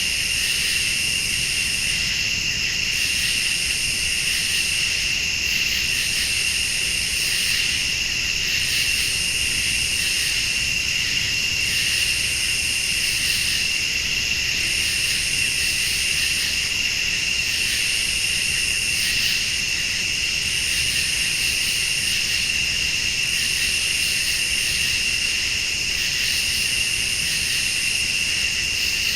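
Night chorus of crickets and other late-summer insects: a steady high trill, with a still higher insect buzz that switches on and off every second or two.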